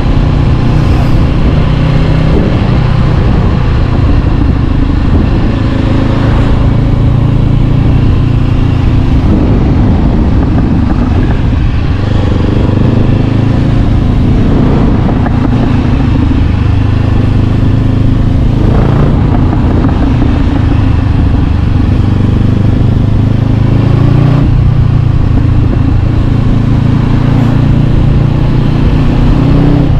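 Honda CB500X's parallel-twin engine running loud through an Arrow Pro-Race exhaust on the move, its note changing pitch several times as the revs rise and drop.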